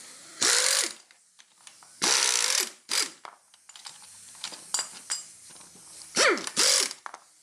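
A power tool running in short bursts: three bursts of about half a second, about half a second in, two seconds in and near the end, plus a brief blip after three seconds. Each burst rises and falls in pitch as the tool spins up and down.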